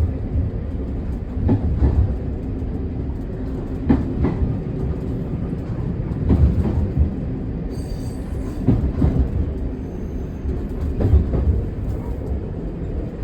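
Diesel train running downhill, heard from the driver's cab: a steady low rumble, with the wheels clattering over rail joints about every two and a half seconds.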